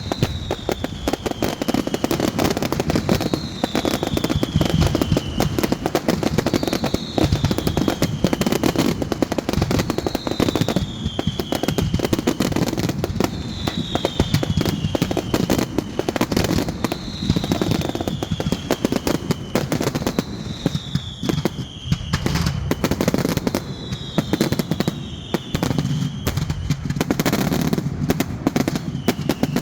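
Fireworks going off in a dense, continuous rattle of bangs and crackles from rapid-fire shots. A high falling whistle repeats about every three and a half seconds.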